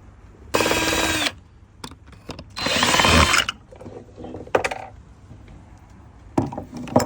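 Cordless drill-driver run in two short bursts, the second about a second long, working at the screws on an electric scooter's wheel, followed by a few short clicks and knocks near the end.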